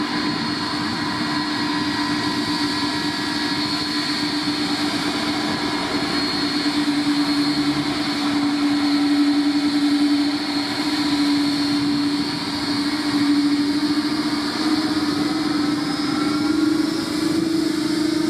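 Jet aircraft engines running with a steady whine over a rushing noise, the pitch creeping up slightly near the end.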